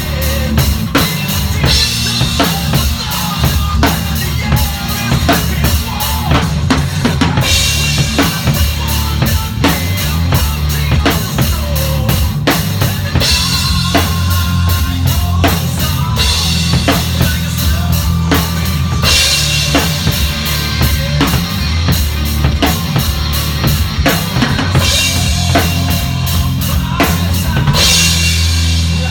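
Instrumental heavy metal passage driven by a loud drum kit: rapid, steady bass drum and snare hits over a sustained bass line.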